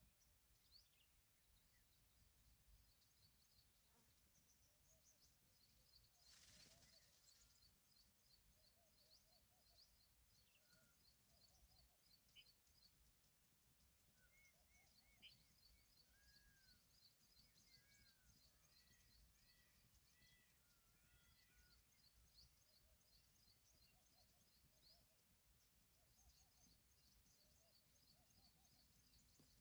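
Faint outdoor birdsong: many small birds chirping and calling over quiet background noise, with a brief rustle or gust about six seconds in.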